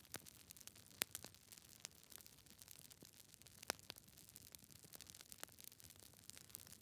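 Wood fire burning in a fireplace, crackling: irregular sharp pops and snaps from the logs over a faint hiss, the loudest pops about a second in and about halfway through.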